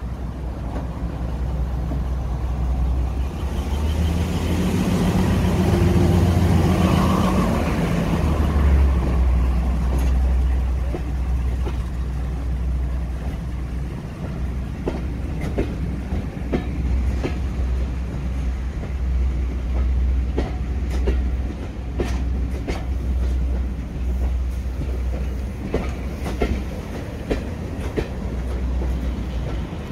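A train rolling past with a steady low rumble that builds over the first several seconds. From about ten seconds in, the wheels click over rail joints as the carriages go by.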